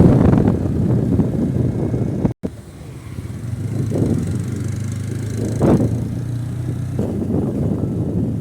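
Motorcycle on the road, a steady low engine hum with wind noise on the microphone, swelling briefly twice. The sound cuts out completely for a moment about two seconds in.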